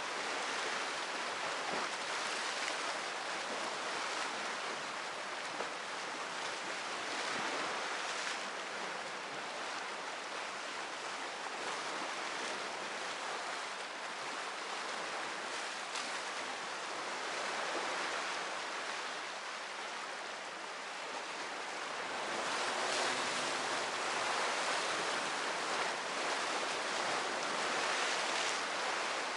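Sea waves breaking and washing ashore, the surf swelling and fading every several seconds.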